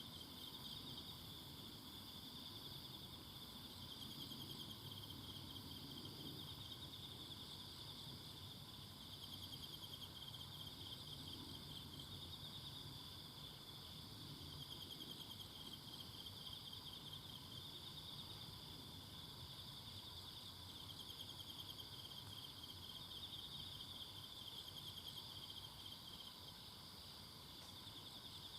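A steady chorus of singing insects in a forest: fast, overlapping trills at a high pitch, with a second, higher trilling band above them and a faint low background hum beneath.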